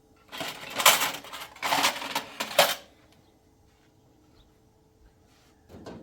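Clattering and clinking of metal dishes and utensils, lasting about two and a half seconds, loudest about a second in and again near its end.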